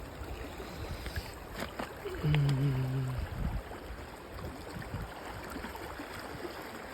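Shallow alpine river flowing over rocks, a steady rushing of water. About two seconds in, a short low hum lasts about a second.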